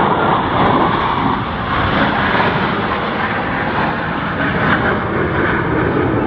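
Blue Angels F/A-18 jet engines heard as a steady, loud rush of jet noise that holds its level without a clear rise or fall.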